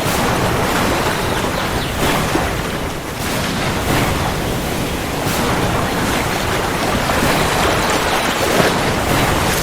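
Steady heavy rainfall: a dense, even hiss that swells and eases slightly every few seconds.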